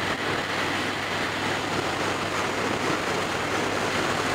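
Steady wind rush over a helmet-mounted microphone while riding at highway speed, with the Yamaha Star Raider's V-twin engine running steadily underneath.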